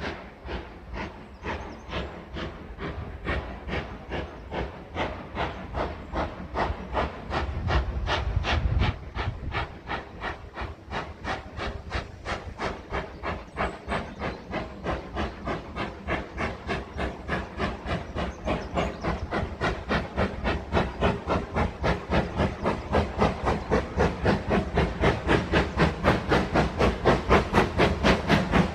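Steam locomotive working hard, its exhaust chuffing in an even rhythm of about three beats a second and growing louder toward the end.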